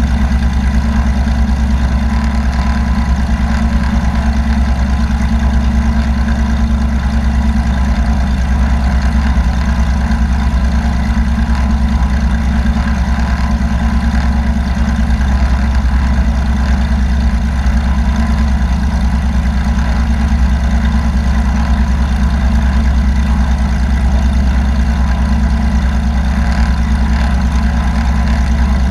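Steady, unchanging drone of a light aircraft's piston engine and propeller running at constant power.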